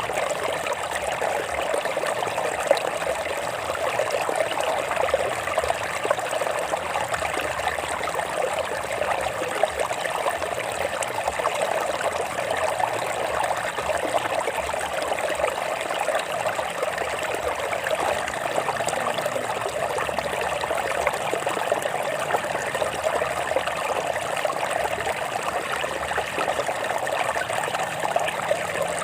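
Shallow stream of water running and trickling over rocks, a steady splashing babble.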